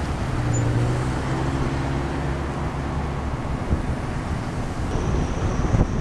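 A motor vehicle's engine running amid road traffic noise, its low hum fading out about halfway through and leaving a steady rush.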